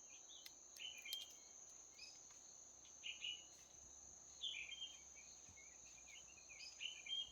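Faint, steady, high-pitched drone of crickets or other insects, with short bird chirps breaking in every second or so, a cluster of them near the end.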